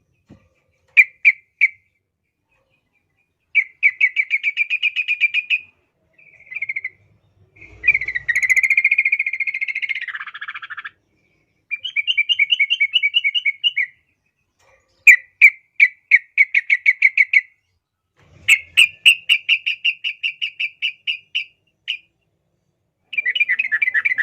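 Yellow-vented bulbul (trucukan) singing: a string of short phrases, each a fast run of bubbly chattering notes lasting one to two seconds, separated by brief pauses.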